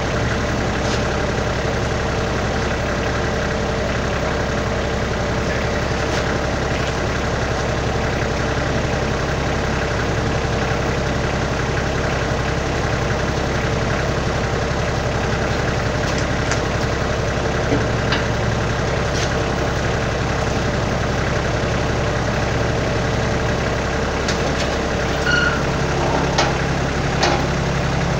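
Kioti tractor's diesel engine idling steadily. The low hum shifts about 24 seconds in, with a few light clicks near the end.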